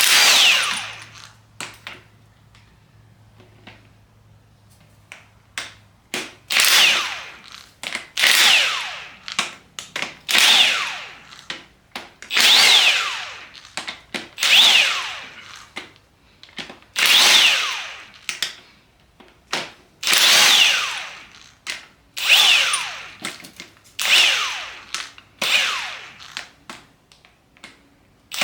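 Handheld power tool run in about a dozen short bursts, each whirring up and then spinning down in falling pitch, as it backs out the crankshaft cradle bolts on a Nissan VG30DETT V6 bottom end. There is a quieter pause of a few seconds before the run of bursts starts.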